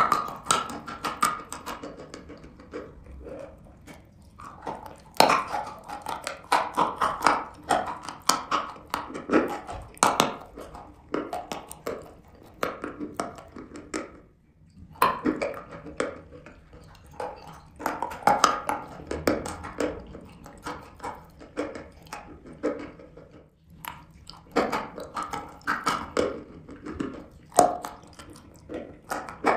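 Close-up crunching and chewing of a dry grey chalk-like block, crisp crackles coming in bouts of several seconds with brief pauses between bites.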